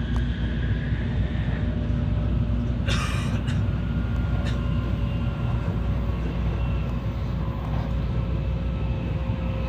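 Tokaido Shinkansen running at speed: a steady low rumble of the train on the rails with a faint whine over it, and a short hiss about three seconds in.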